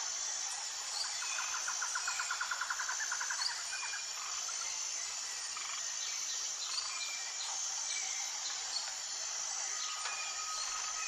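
Outdoor nature ambience: birds calling over a steady high-pitched insect drone. A rapid trill of quick, evenly repeated notes runs for about two and a half seconds near the start, followed by scattered short chirps.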